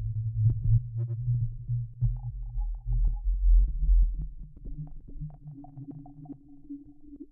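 Synthesized sub-bass drone with overdrive distortion, a low rumble broken up by crackling clipping. A thinner steady tone comes in about halfway, and the whole thing fades through the second half.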